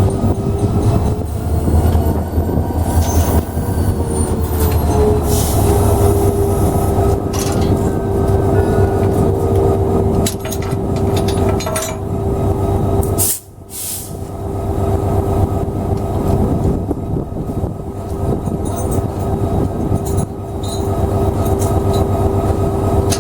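Diesel locomotive running while slowly shunting and coupling passenger cars. A low engine rumble with a steady whine, scattered clanks and wheel squeal, and a sudden brief drop in sound about halfway through.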